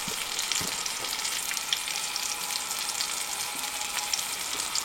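Food sizzling and frying steadily on a very hot tent stove, a continuous hiss with small scattered crackles.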